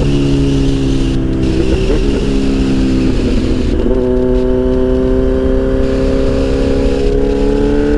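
Kawasaki Z800 inline-four running under way through an aftermarket exhaust with no dB killer, its note rising slowly from about halfway through as it accelerates. Wind rumble on the microphone underneath.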